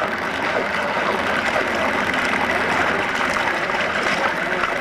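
Steady rush of choppy water against a kayak's hull, a constant even hiss with no clear events.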